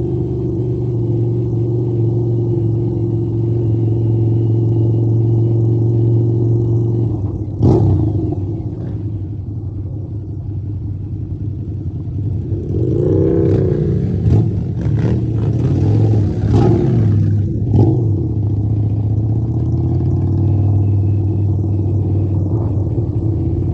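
Motorcycle engine running under way with a steady drone; about a third of the way in the note shifts lower, then through the middle it rises and falls a few times with some knocks before settling back to a steady drone.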